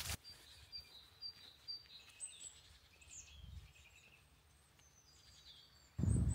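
Small birds calling: short high chirps repeated about every half second, with a few thin whistling notes. Near the end a loud low noise cuts in abruptly.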